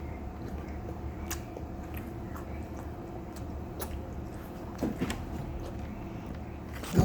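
Quiet handling and eating noises, small clicks and a couple of soft knocks over a steady low hum, then a loud thud and clatter at the very end as something is accidentally dropped.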